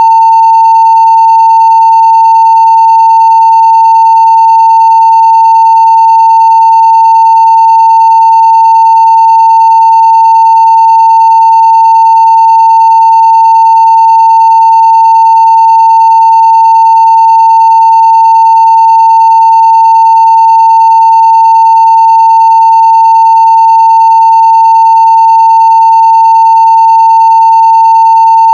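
A 900 Hz sine-wave test tone at full scale (0 dB), held as one steady, unbroken, loud pitch.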